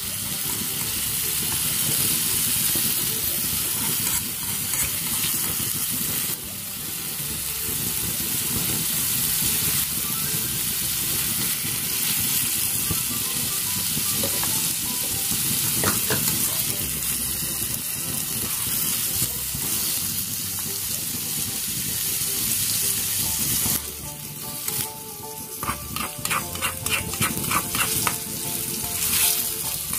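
Chilli paste and pieces of chicken liver frying and sizzling in oil in a miniature wok, stirred with a small metal spatula. Near the end the sizzle drops and quick scraping strokes stand out, about three a second.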